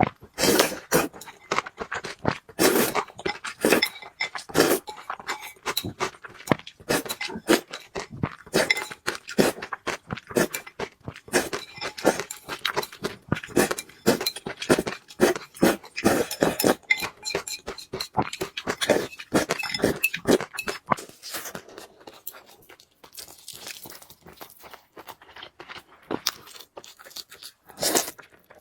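Close-miked eating of spicy noodles: rapid, irregular wet chewing clicks, smacks and crunches. It thins out and grows quieter for the last several seconds, then comes a loud cluster near the end.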